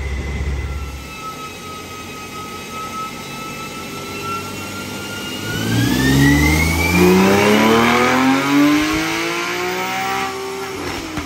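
Porsche 911 flat-six running on a chassis dyno in a full-throttle pull with the sport exhaust mode off. It holds a steady speed at first. About halfway through its note climbs smoothly and gets louder, with a higher whine rising alongside. Near the end it drops away as the throttle is released.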